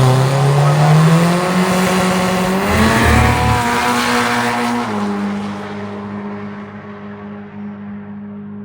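Drag racing car accelerating hard down the strip, its engine pitch rising in steps through the gears for about five seconds, then holding steady as the sound fades away.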